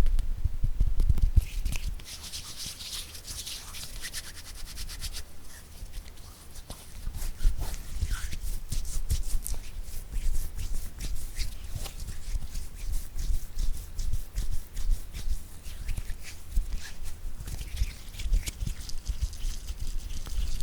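Close-miked fingertip tapping in a quick, irregular patter of crisp clicks and soft thumps. The first two seconds are heavier and thumpier; a softer hissing, rubbing stretch follows before the steady tapping resumes.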